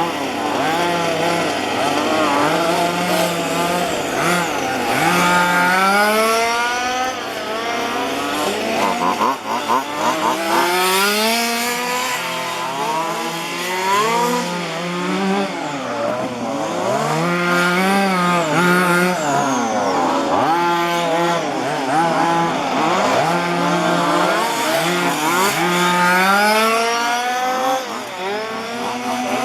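Several 1:5-scale gasoline RC cars' small two-stroke engines running at once, revving up and down over and over as the cars accelerate and brake around the track. A steady lower engine note runs underneath.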